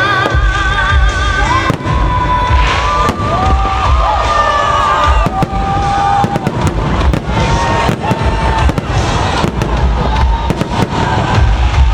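Fireworks salute: many bangs and crackling bursts in quick succession, with music playing under them.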